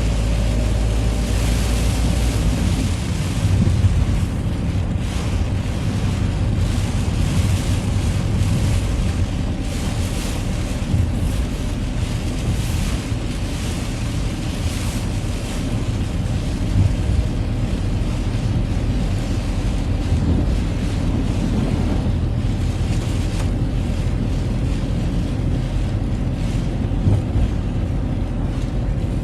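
Citroën Xsara driving on a wet road in the rain: a steady low rumble of engine and road noise with the hiss of tyres on wet tarmac.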